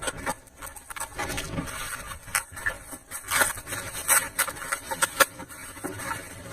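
Irregular clicks and scrapes of hand work on parts, a few strokes a second at uneven strength, with sharper knocks about three and a half, four and five seconds in.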